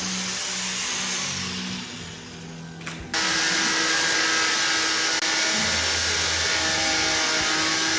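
Handheld electric marble cutter running with a steady high whine. Its sound sags and dulls for about a second, then jumps suddenly back to full loudness about three seconds in.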